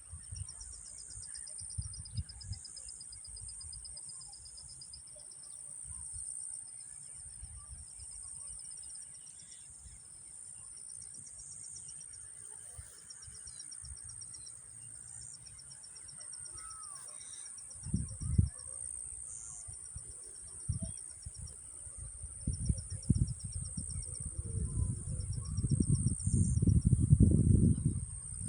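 Outdoor nature ambience of insects trilling: a steady high buzz with a second, pulsing trill under it. Low rumbling thumps come and go, loudest in the last few seconds.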